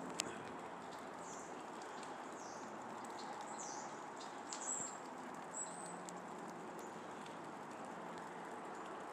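Steady light patter of drizzle, with a handful of short high chirps from a small animal scattered through the middle seconds and one sharp click just after the start.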